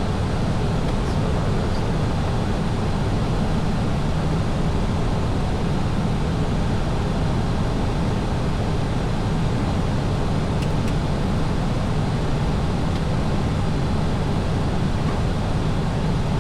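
Steady noise inside an Airbus airliner in flight: a constant rush of air and engine hum, heaviest in the low end and unchanging in level.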